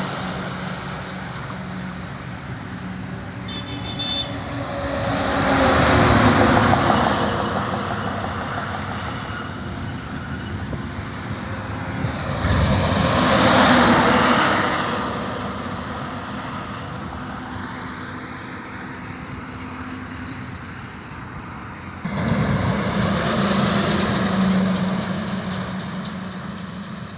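Highway traffic with heavy trucks passing one after another: three swells of engine and tyre noise build and fade, over a steady low engine hum. A short high-pitched beep sounds about four seconds in.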